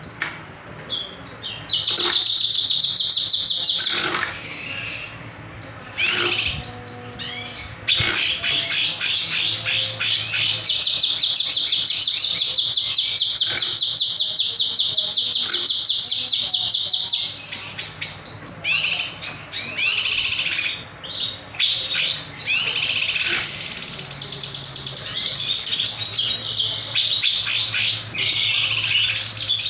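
Kinoy bird singing in full song: long runs of rapid-fire trilled notes and sharp, raspy bursts, with short pauses between phrases.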